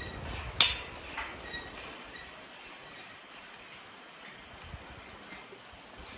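A sharp metallic clank about half a second in, ringing briefly, then two fainter clinks, over a steady outdoor background: the steel deck and fittings of a suspension footbridge being walked on.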